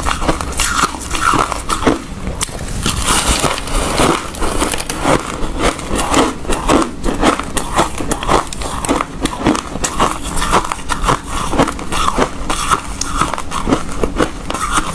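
Ice being bitten and chewed up close, a continuous run of rapid crunches and cracks.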